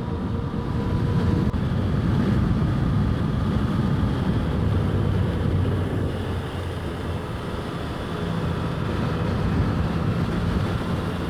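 Yamaha FJ-09's three-cylinder engine running under way at road speed, its note stepping up a couple of times, under steady wind noise on the microphone.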